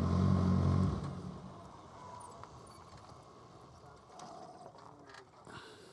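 Suzuki GSX-R600 inline-four with an M4 exhaust idling steadily, then shut off about a second in; only faint background noise and a few small clicks follow.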